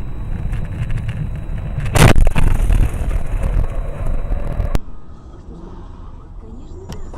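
A car's road and engine noise, then a loud crash about two seconds in, the impact of a road collision, followed by a few seconds of noisy aftermath before the sound drops abruptly.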